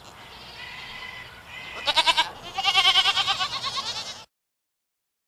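Goat screaming: two loud, quavering bleats about two seconds in, the second one longer, after which the recording cuts off abruptly into silence.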